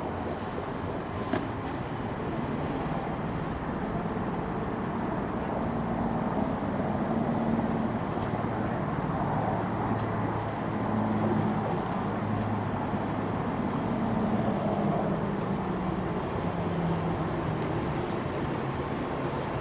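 Steady low rumble of a train at a station, with a low hum that shifts slightly in pitch.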